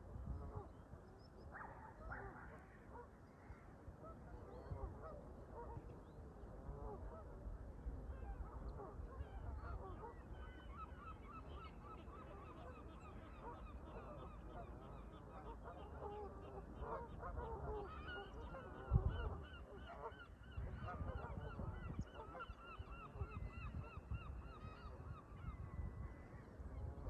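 A flock of Canada geese honking over and over, the calls growing denser and more rapid about a third of the way in. Underneath runs a low rumble of wind on the microphone, with a louder bump about two-thirds of the way through.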